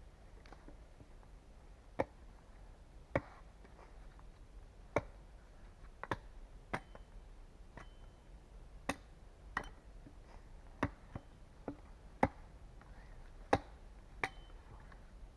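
A series of single sharp knocks, irregularly spaced at roughly one a second, of a hand tool striking wood. Some knocks carry a brief ringing note.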